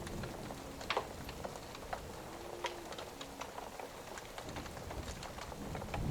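Rain-and-fireplace ambience: steady rain with scattered sharp pops and crackles from a wood fire.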